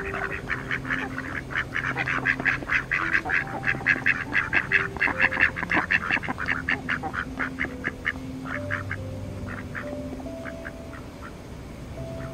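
Mallard ducks quacking in a fast run of short calls, several a second, which thins out to scattered quacks over the second half.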